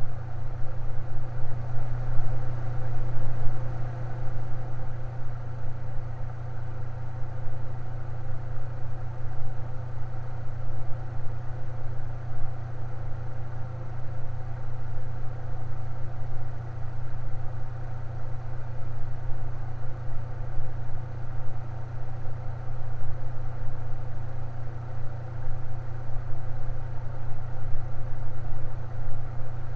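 Electric fan running steadily: a low hum with fainter steady tones above it, unchanging throughout.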